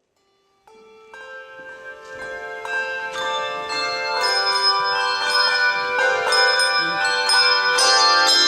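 Handbell choir playing: ringing bell notes come in one after another about a second in and build up into full chords, growing steadily louder, each note ringing on.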